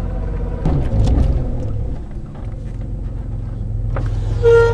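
Off-road 4x4 engine running at low speed, heard from inside the cab, with a brief rise in engine note about a second in. Near the end comes a loud, short, steady-pitched tone, twice.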